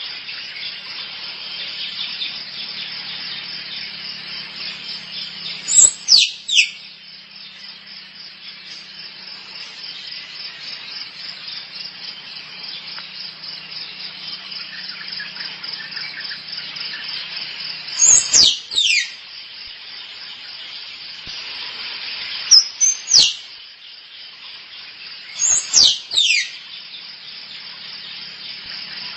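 Squirrel mating calls: loud, short, high squeaks that drop sharply in pitch, coming in groups of two or three, four times. They sound over a steady high buzzing of insects.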